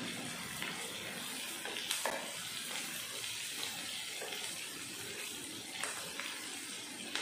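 Chopped onions, green chillies and curry leaves sizzling in hot oil in a pan while being stirred with a wooden spatula. A steady frying hiss, with a few light knocks of the spatula against the pan.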